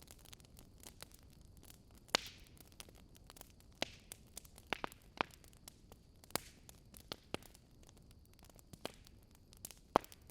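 Burning logs crackling: irregular sharp pops and snaps over a low steady hiss, the loudest pops about two seconds in and near the end.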